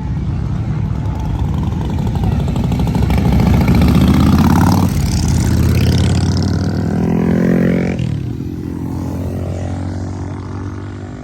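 A car engine revving hard as it accelerates past. Its pitch climbs, drops sharply about five seconds in, climbs again, then fades as the car pulls away.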